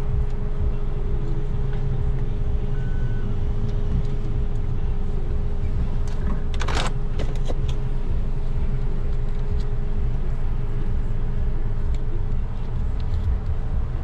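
A car idling at a standstill, heard from inside the cabin: a steady low rumble with a thin steady hum over it. A short hiss comes about seven seconds in.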